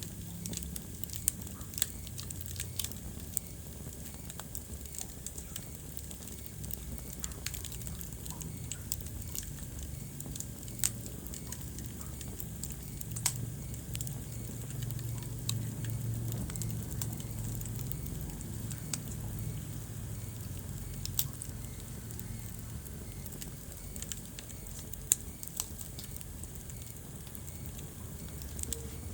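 Wood fire burning in a fireplace: a low steady rumble of flame with scattered sharp crackles and pops, a few louder snaps among them.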